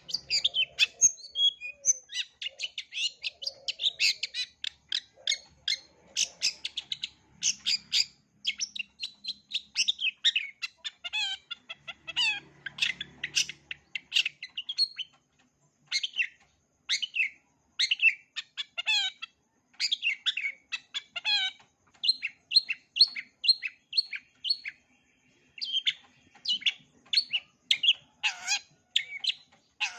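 Long-tailed shrike (cendet) singing a fast, unbroken stream of sharp chirps, trills and whistled notes, much of it mimicry of other birds' calls, with a short pause about halfway through.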